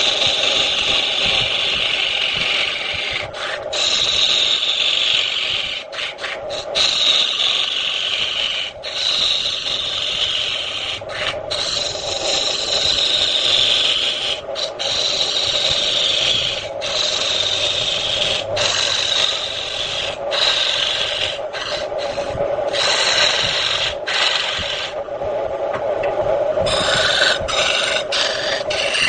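Turning tool cutting into redwood spinning on a wood lathe: a continuous scraping hiss broken by many brief pauses, over the steady hum of the lathe.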